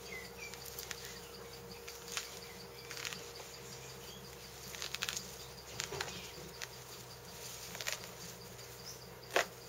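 Thick pomelo peel being worked loose from the fruit: faint, scattered clicks and scrapes over a steady background hum.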